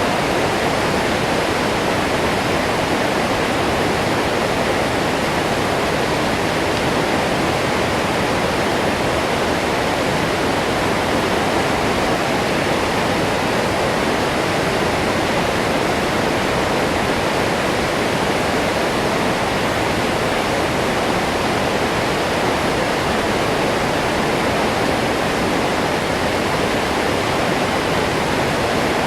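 Waterfall rushing: a steady, dense roar of falling water with no change.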